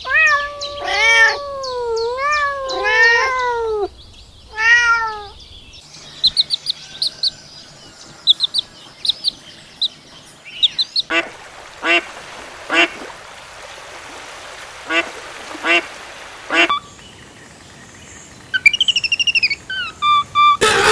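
A succession of different animal calls. First come pitched cries that bend up and down. Then high short chirps, then a run of short calls about once a second, and a few falling calls near the end.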